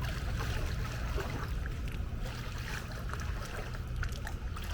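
Pool water splashing and sloshing as a person moves through it, with small scattered splashes over a steady low rumble.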